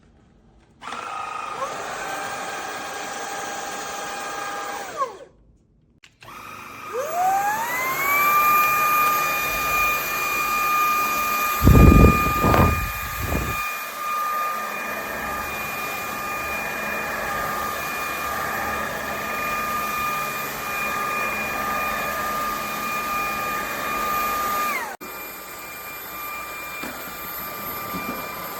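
VIAFLY cordless stick vacuum's motor switched on briefly and off, then started again with a rising whine that settles into a steady high-pitched run before winding down near the end. A few loud low thumps come partway through the run.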